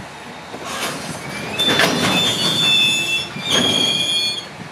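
Container freight train's flat wagons rolling past on the rails, with two bouts of high-pitched wheel squeal, the first about a second and a half in and the second shorter one near the end.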